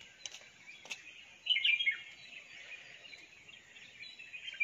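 Short bird chirps, a cluster about one and a half seconds in and another near the end, with a couple of faint clicks early on over a low background hiss.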